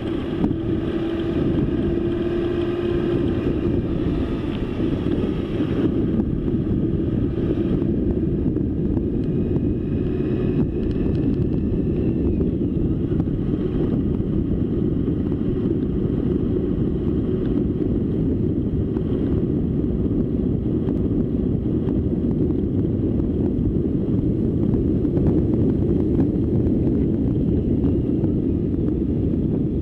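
Steady wind buffeting on the microphone and rumble from a moving bike, mostly low-pitched and unbroken, with a faint pitched hum higher up during the first several seconds.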